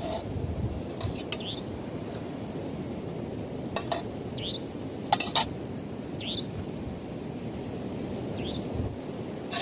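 A short, high, rising chirp repeated about every two seconds, the call of an unseen night animal, over a steady low rushing noise. A few sharp clicks, the loudest a quick pair about halfway through.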